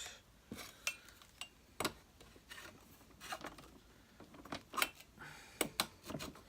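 Scattered clicks, taps and knocks of plastic vacuum cleaner parts being handled and fitted together, with a few short scrapes.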